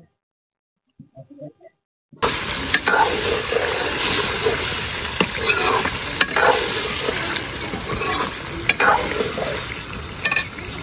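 Potato curry sizzling in a steel pot over a wood fire, stirred with a metal ladle that scrapes and clinks against the pot every second or so. The sizzling starts suddenly about two seconds in, after near silence.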